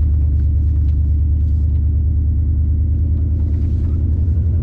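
A vehicle's engine and road noise heard from inside the cab while driving, a steady low drone.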